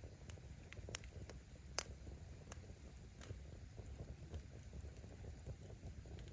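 Bonfire burning: a low steady rumble of flame with scattered crackles from the firewood, and one sharp pop about two seconds in.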